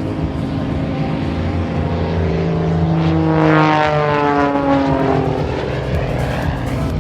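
Pitts Special aerobatic biplane's piston engine and propeller running hard as it flies past, the pitch dropping steeply about halfway through as it goes by.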